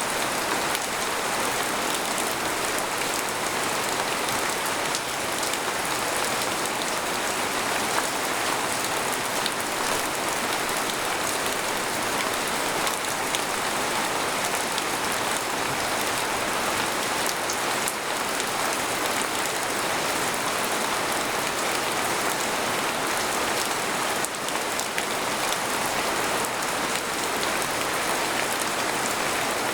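Steady rain falling on a tent, heard from inside it as a dense, even hiss of many fine drop hits with no thunder.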